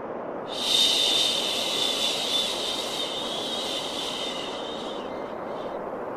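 Long 'shh' shushing hiss for calming a baby, starting about half a second in and fading out a little after five seconds, over a steady bed of white noise.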